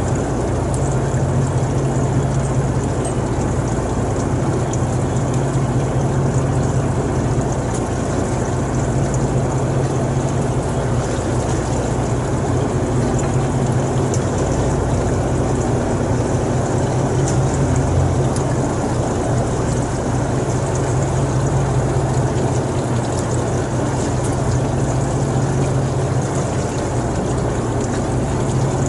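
Boat engine running steadily, a continuous low drone with a rushing noise over it.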